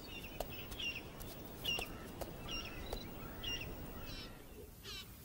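Small bird chirping a short, repeated call about once a second, with a few faint ticks, and a quick trill near the end.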